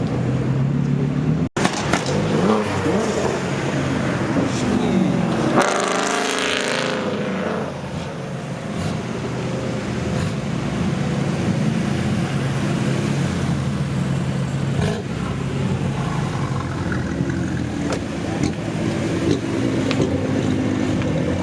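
Car engines running at a car meet, with one engine revving up sharply about six seconds in, then settling back to a steady engine drone. The sound drops out for a split second about a second and a half in.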